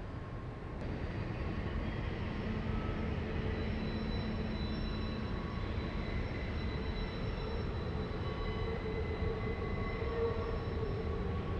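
Double-stack container freight train rolling steadily across a steel trestle bridge: a continuous rumble of wheels on rails, with faint, thin, high-pitched steady tones over it. It gets a little louder about a second in.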